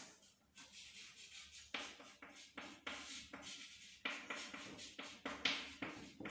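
Pen or marker writing by hand: a run of short, irregular scratching strokes.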